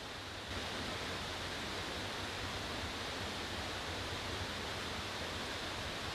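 Mountain stream rushing over rocks, a steady hiss of water that gets a little louder about half a second in.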